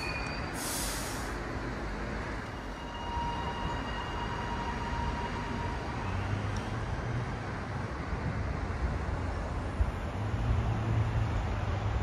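Train at a station platform: a brief burst of air hiss just after the start, then a steady rumble, with a low hum that grows louder near the end.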